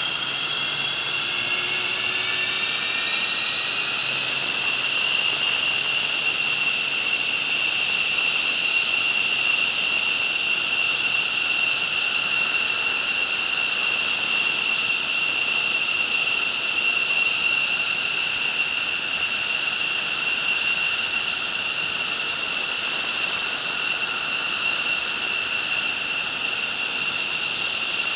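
F-15 fighter's turbofan engine whining as it spools up after start, the pitch rising over the first few seconds and then holding steady at idle over a constant roar of air.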